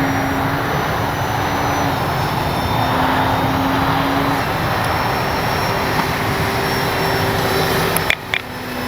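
Brushless electric motor and propeller of a radio-controlled E-flite Piper Cherokee in flight: a steady rushing drone with a faint hum that shifts pitch in small steps as the throttle and distance change. A few sharp clicks come near the end, as the level briefly drops.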